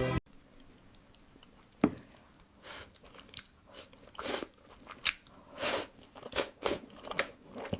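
Eating sounds close to the microphone: a sharp bite about two seconds in, then irregular crunchy chewing.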